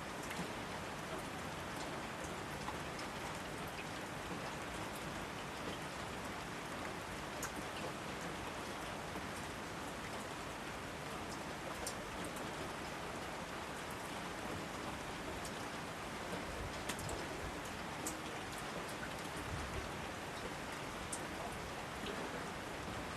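Steady rain falling on foliage, an even hiss with scattered individual drops ticking through it.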